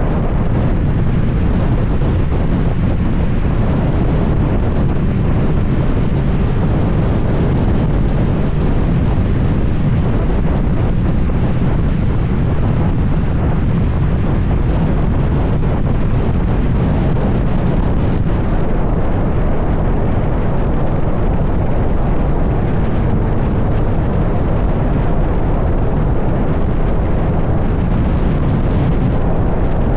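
Kawasaki ZX-6R's inline-four engine running under way, mixed into heavy wind rushing over the microphone, as a steady, unbroken rumble.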